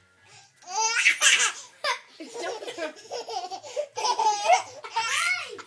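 Baby laughing in a string of bursts with short breaks, starting just under a second in.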